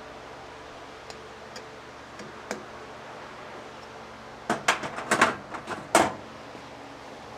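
A few light clicks, then a quick cluster of sharper knocks and taps about two-thirds of the way through, from a part being trued in a lathe chuck to cut its runout, over a faint steady shop hum.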